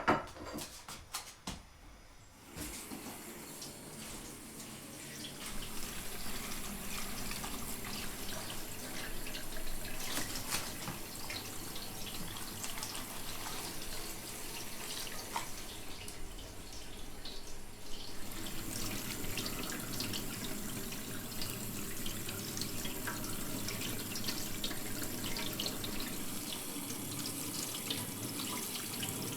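A sharp knock, then water starts running about two seconds in and keeps running steadily, growing fuller near two-thirds of the way through.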